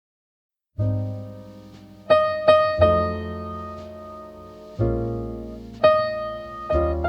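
Silence for under a second, then slow lo-fi jazz piano: chords struck every second or so, each left to ring and fade.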